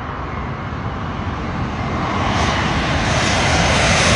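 Boeing 787 jetliner's engines, a steady rushing roar that swells louder from about halfway through as the plane draws near.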